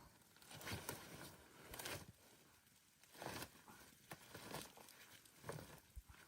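A series of faint, irregular crunches or rustles, about six over a few seconds.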